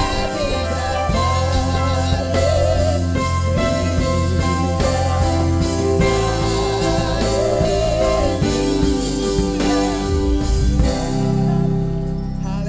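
Contemporary worship song played by a band with a singer: drum kit, bass and keyboard under a sung melody. Near the end the drums drop out, leaving held chords.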